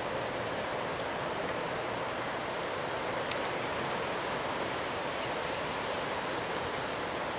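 Steady rushing wash of waves from a rough lake, an even noise with no break.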